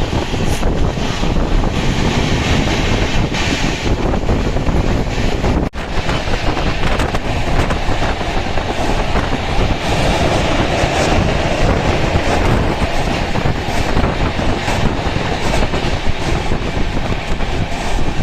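Express passenger train running at speed, heard from aboard: a steady loud rumble of wheels on track with the clickety-clack of rail joints. The sound drops out for an instant about six seconds in.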